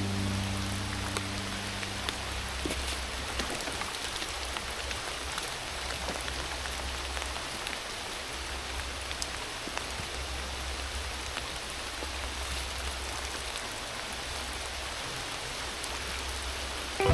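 Heavy rain falling: a steady hiss of rain with many scattered drop ticks and a low steady rumble underneath.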